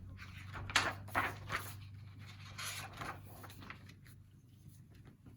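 Picture book being handled and its pages opened: several short rustling, rubbing sounds of paper in the first few seconds, over a low steady room hum.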